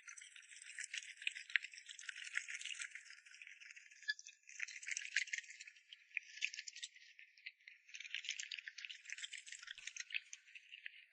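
A dog eating: dense, rapid crunching and clicking in bursts of a second or more, with short pauses between.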